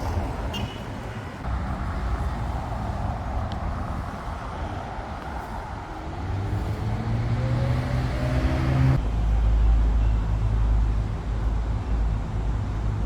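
Motor vehicle engine running with road rumble. About six seconds in, an engine speeds up and its pitch rises for a few seconds. The sound changes abruptly about nine seconds in, to a heavier low rumble.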